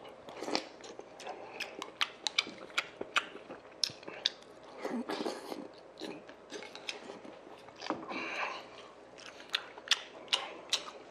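Close-miked eating of sundae-gukbap, spoonfuls of soup-soaked rice, pork and blood sausage: wet chewing with many sharp mouth clicks, and a few longer slurping swells about half a second, five and eight seconds in.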